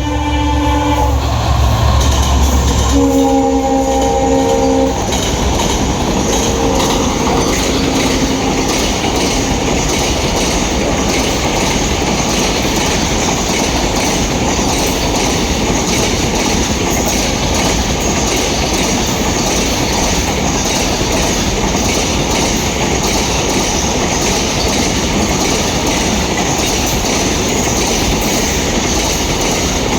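WDG 4 diesel locomotive sounding its horn in several blasts as it passes at full speed, with a heavy low engine rumble for the first few seconds. The train's cars then rush past with steady wheel rattle and clickety-clack on the rails.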